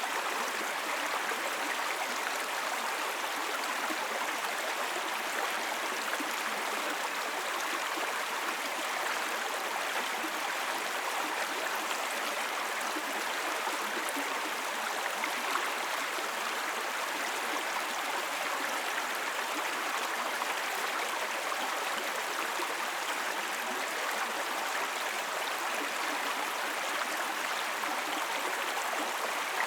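Small brook babbling: shallow water running and gurgling over stones, a steady, even rush.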